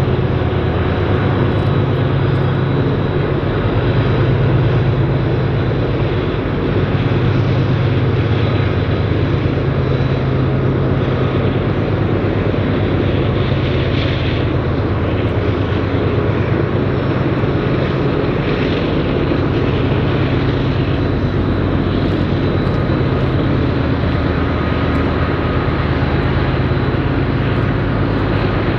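Freight train rolling by: the steady drone of diesel locomotive engines over the rumble of wheels on rail, with a faint thin ringing tone held high above it.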